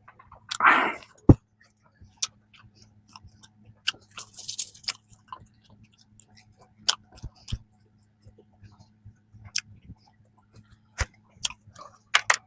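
Close-miked eating of bread: intermittent chewing with wet mouth clicks, and a short crisp crackle about four seconds in. A faint steady low hum lies underneath.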